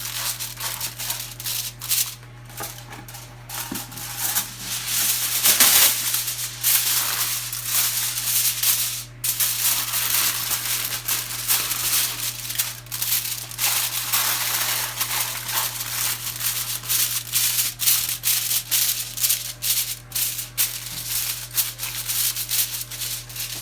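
Aluminium foil crinkling and rustling in quick, irregular crackles as it is pressed and tucked around a baking dish, over a steady low hum.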